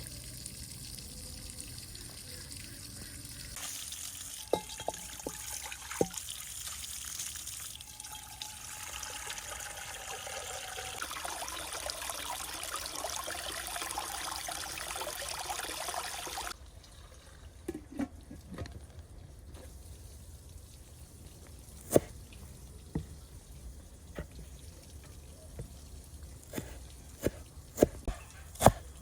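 Water pouring and splashing steadily, cutting off suddenly about two-thirds of the way through; then scattered sharp knocks that come faster near the end.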